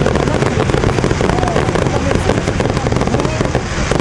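Many fireworks bursting in rapid succession: a dense, unbroken run of bangs and crackle.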